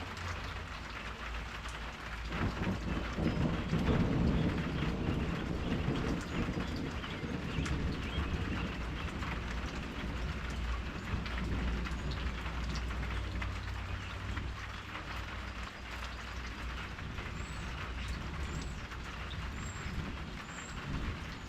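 Steady rain falling, a dense patter of drops, over a constant low rumble. A deeper rumble swells up a couple of seconds in and fades over the next few seconds.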